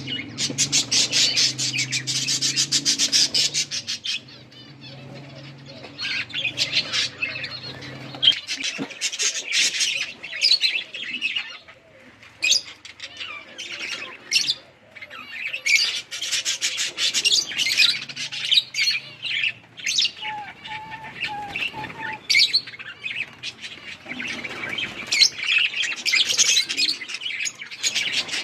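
A flock of budgerigars chirping and chattering in rapid, overlapping high calls. A steady low motor-like hum runs under them and stops about eight seconds in.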